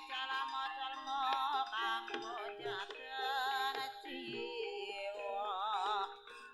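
Ebeg accompaniment music. Steady sustained gamelan-style notes and short drum strokes sit under a high, wavering melody line with strong vibrato.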